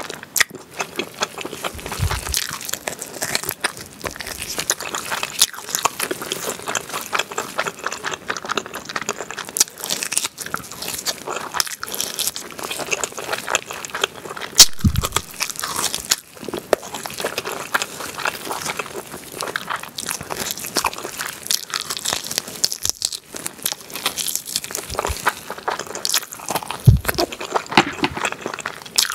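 Close-miked eating sounds: a person biting and chewing meat off grilled pork back ribs with melted cheese, a dense run of short clicks throughout.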